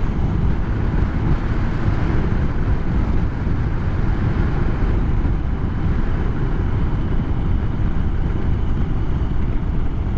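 Motorcycle riding at road speed: a steady run of engine and road noise with wind buffeting the microphone.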